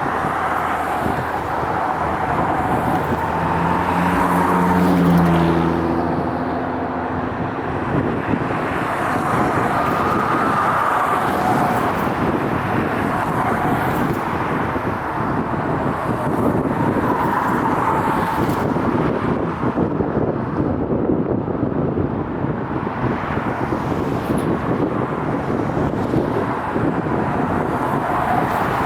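Steady road-vehicle noise, car tyres and engines, with a short low steady hum about four to six seconds in.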